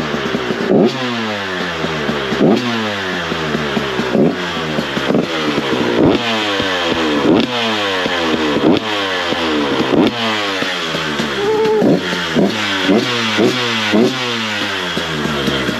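KTM 150 two-stroke dirt bike engine warming up after a cold start, blipped repeatedly on the throttle: each blip is a quick rise in revs that falls back toward idle. The blips come faster near the end, and one rev is held briefly a little after the middle.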